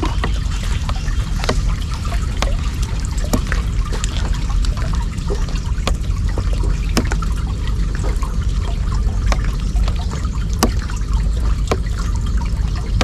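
Floodwater trickling and splashing into a street storm drain, with scattered irregular drips over a steady low rumble.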